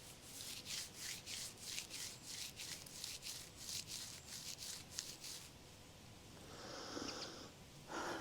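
Herb leaves and stems rustling in quick, brushing strokes, about three a second, as they are handled and picked, then a brief softer rustle near the end.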